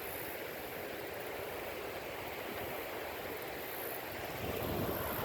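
Wind: a steady outdoor rush with gusts buffeting the microphone, the low rumbling growing stronger near the end.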